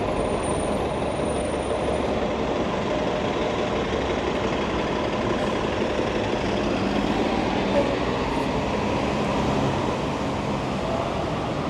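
Steady city street traffic noise, with a heavy vehicle's engine running close by.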